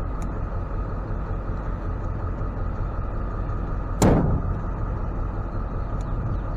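Steady low engine hum and road noise inside the cab of a Ford F-550 tow truck. A single sharp knock sounds about four seconds in.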